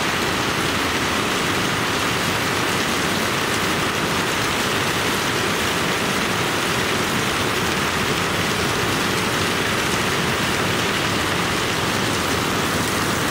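Heavy rain falling in a steady, even hiss, with water streaming off a roof edge.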